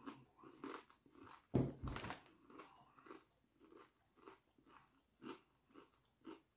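A person biting into and chewing a kettle-cooked potato chip, a run of crisp crunches about three a second. The loudest crunch comes about one and a half seconds in, and the crunches grow fainter toward the end.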